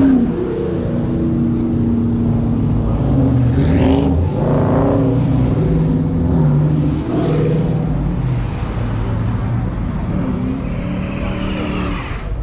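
Loud V8 muscle-car engines revving and running, the engine note stepping up and down in pitch, with a couple of rising sweeps as the throttle is opened.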